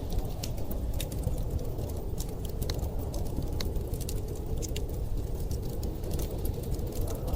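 Wood fire crackling, with frequent small sharp pops at irregular intervals, over a steady low rush of storm wind.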